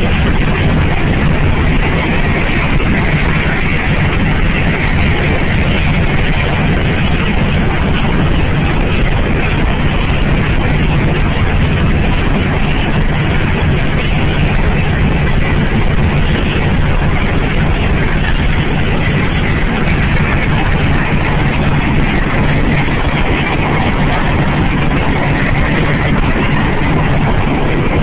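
A car being driven: steady engine and road noise with a constant low hum.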